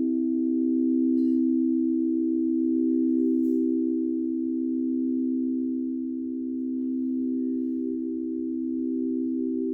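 Singing bowls ringing: several low steady tones held together, one of them wavering in a slow pulsing beat.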